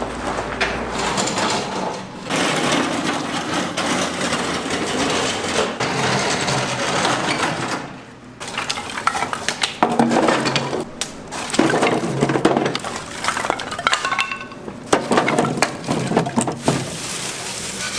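Dense noise for several seconds, then a run of sharp, irregular clattering and knocking of hard objects such as pots, dishes or wood being handled.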